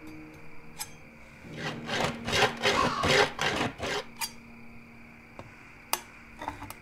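Several rough scraping strokes in a burst lasting about two and a half seconds, with a few sharp clicks before and after, over a faint steady hum.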